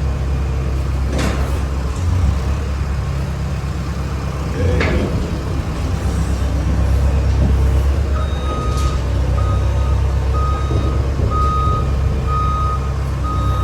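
Box truck engine running low and steady while it maneuvers, with two short sharp noises in the first five seconds. Its backup alarm starts beeping about eight seconds in, at an even pace of a little more than one beep a second.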